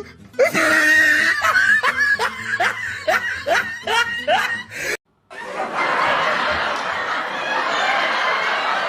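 A person laughing in a rhythmic run of short rising 'heh-heh' bursts, about two or three a second. About five seconds in it cuts off abruptly, and a steady noisy hiss follows.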